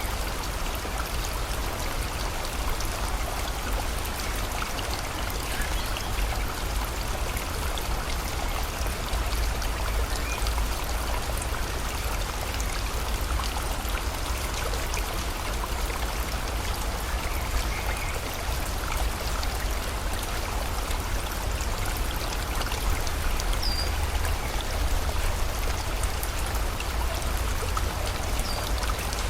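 Steady rush of running river water mixed with rain, even and unbroken, with a couple of faint, brief high bird chirps in the second half.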